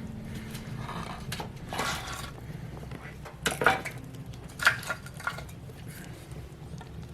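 Split firewood pieces being handled and set into a wood stove, knocking against each other and the stove in a series of sharp clunks and clatters, the loudest about three and a half and four and a half seconds in.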